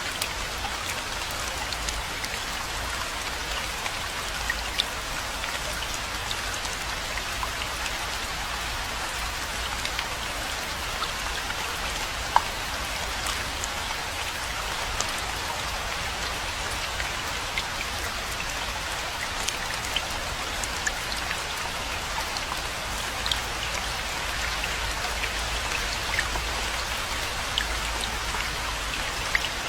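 Steady rainfall, a dense even hiss with many individual drops ticking on a surface.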